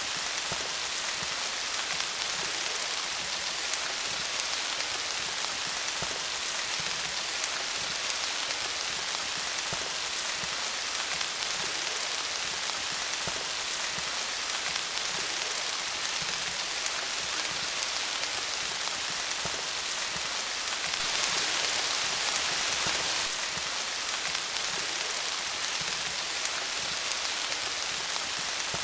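Steady rain falling on leaves, a dense hiss of patter, swelling a little louder for a couple of seconds about two-thirds of the way in.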